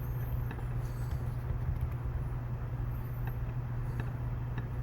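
A steady low hum with a few faint, light clicks scattered through it, typical of LEGO bricks being handled and pressed together.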